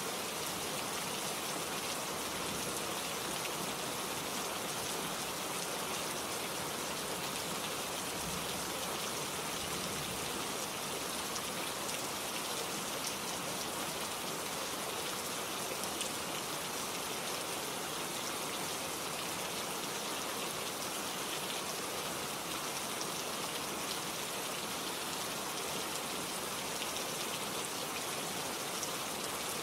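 Steady rain falling, a dense even hiss of drops with fine individual drop ticks scattered through it.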